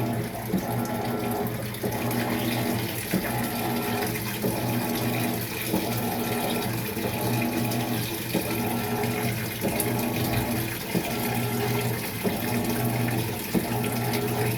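Maytag MVWX655DW1 top-load washing machine filling during a tub-clean cycle: water rushing steadily into the tub over a constant electrical hum, with a faint regular beat about every second and a half.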